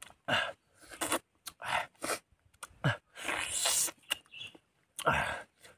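A man biting into and chewing pieces of cooked pork close to the microphone: wet mouth sounds in short irregular bursts with brief pauses, and a longer hissing stretch about three seconds in.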